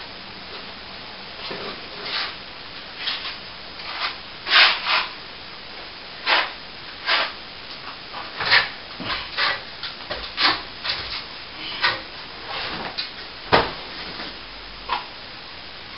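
A plastering tool scraping and rubbing on plaster in short, uneven strokes, about one a second, with a few louder scrapes.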